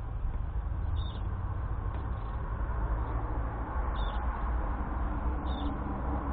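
Outdoor ambience: a steady low rumble, with a bird giving a short, high chirp four times, roughly every second and a half.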